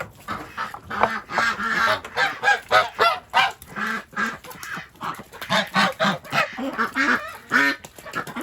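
Domestic ducks quacking in a rapid run of short, overlapping calls, several a second.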